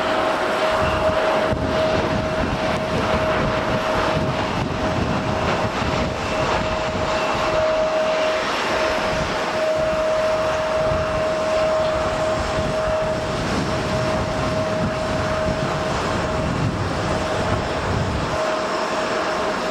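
Airliner jet engines running steadily, a constant hiss with a single steady tone held throughout.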